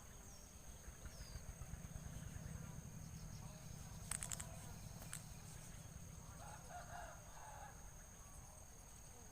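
Faint rural ambience with a domestic chicken calling for about a second near the seven-second mark, a few short high chirps from small birds, and a sharp click about four seconds in, over a steady high whine and a low rumble.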